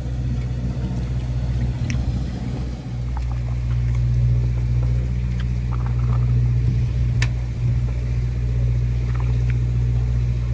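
Steady low drone of the fishing boat's machinery running, a little louder from about three and a half seconds in, with a few faint clicks.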